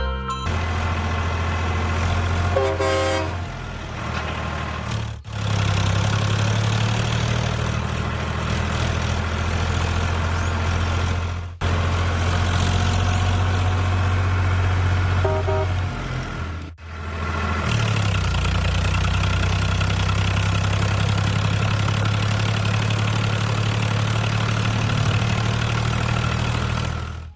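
A mini tractor's small engine running steadily, with short horn toots about three seconds in and again around fifteen seconds. The running sound breaks off abruptly three times and resumes, like edits between shots.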